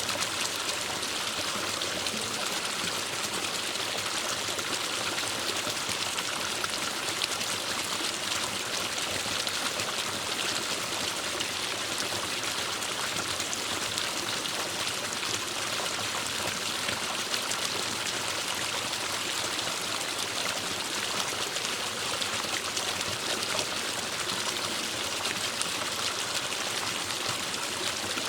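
Forest stream flowing steadily, an even, unbroken sound of running water.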